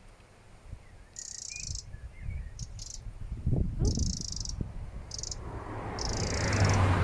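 Small songbird calling: a few faint chirps, and short high, buzzy trills repeating about every second and a half. A low rumble and hiss builds near the end.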